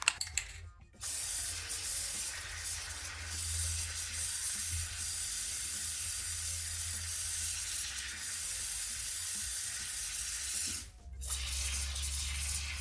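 Aerosol chain spray hissing in one long steady burst onto a motorcycle's O-ring drive chain. It stops briefly near the end, then sprays again.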